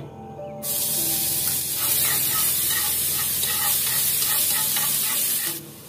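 Minced shallots and garlic sizzling in hot oil in a frying pan as they are stirred with a spatula, being fried until fragrant. The sizzle starts about half a second in, holds steady, and cuts off shortly before the end.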